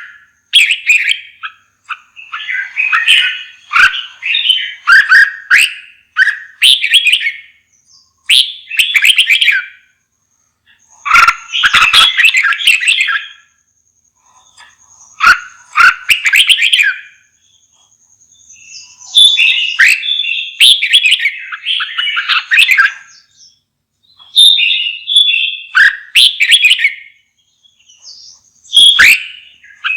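Red-whiskered bulbul singing: a run of short, loud warbling phrases, each a second or two long, with brief pauses between them.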